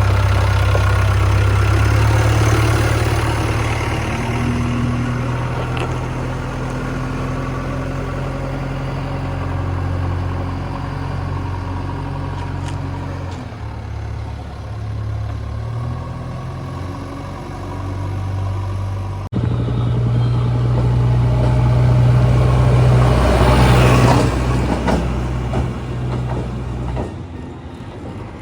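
Heavy diesel engine of a JCB 3DX backhoe loader working under changing load, its note stepping up and down. Near the end comes a louder surge of noise.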